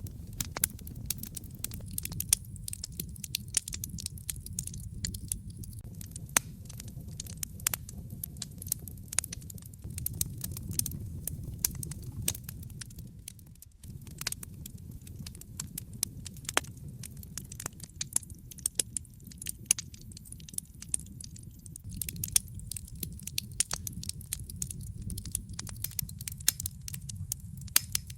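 Wood fire crackling in a fireplace: frequent, irregular sharp pops and snaps over a steady low rumble of the burning flames. The sound dips briefly about halfway through, then carries on as before.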